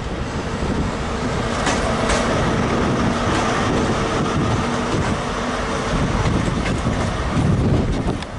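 A GWR High Speed Train led by a Class 43 diesel power car passes close by: a steady engine note over a heavy rumble of wheels on track. The wheels click over rail joints twice about two seconds in, and the engine note fades after about five and a half seconds as the power car goes by.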